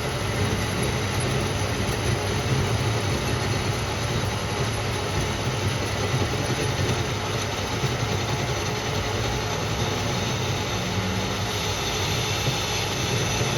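Workshop machinery running steadily: an even mechanical noise with a low hum underneath.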